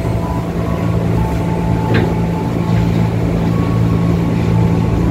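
Inside an electric commuter train car rolling slowly into a station: a steady low hum from the car, with faint higher whining tones that come and go.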